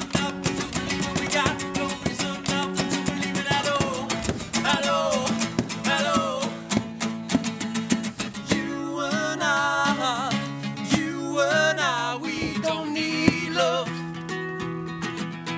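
Rock band music: a singer's voice with strong vibrato over strummed guitar and held bass notes.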